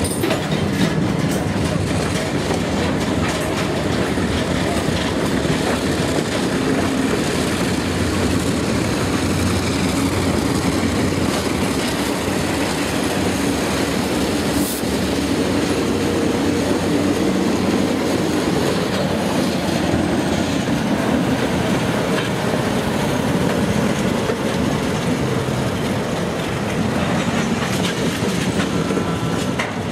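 Freight train rolling steadily, its car wheels clacking over the rail joints.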